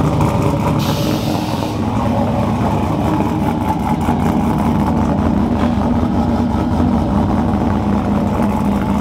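Car engine running steadily through its newly fitted dual-exit exhaust.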